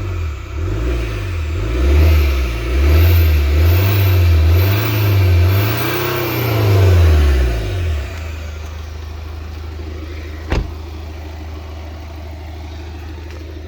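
BMW 520d xDrive's four-cylinder diesel engine revved up and down several times in quick succession, then settling back to a steady idle about eight seconds in. A single sharp knock comes near the end. The car is flood-damaged, and the engine is judged to start and run very well.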